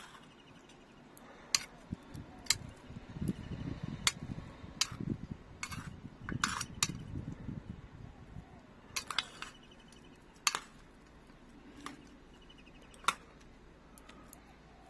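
A utensil clinking irregularly against a bowl as food is mixed and served, about a dozen sharp clicks over a soft rustling of the food.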